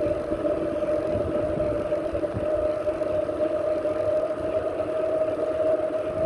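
A small motor's steady whine over a low, uneven rumble, with no change in pitch.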